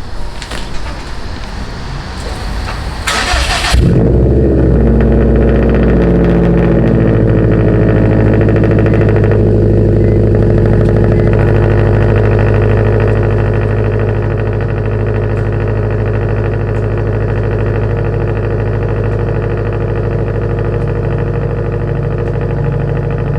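A car engine starts about four seconds in after a stretch of rushing noise, runs at high revs and settles within a few seconds to a steady, loud idle.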